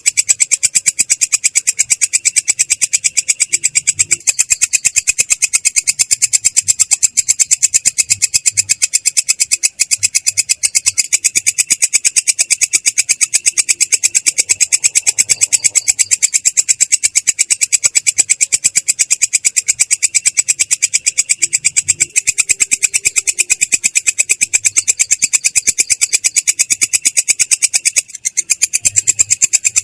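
A belalang kecek katydid singing a continuous rolling trill: a rapid, even stream of high-pitched pulses, clear but rough-edged, with a brief break near the end.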